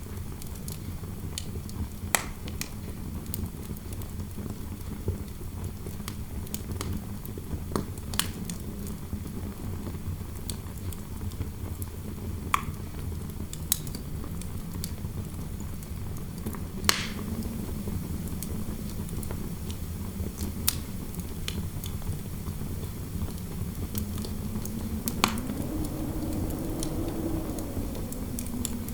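Fireplace fire crackling, with sharp pops every few seconds over a steady low rumble of interior wind. Near the end a low wind howl rises and falls.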